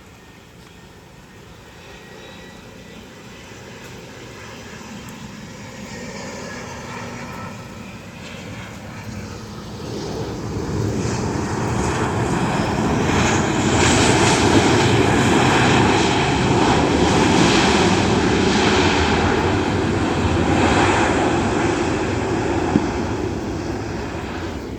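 Airliner's engines during landing, steadily growing louder over about ten seconds, loudest past the middle, then easing off a little near the end.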